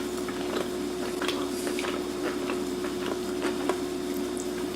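Soft, irregular chewing and mouth clicks from someone eating roast Cornish hen, over a steady low hum.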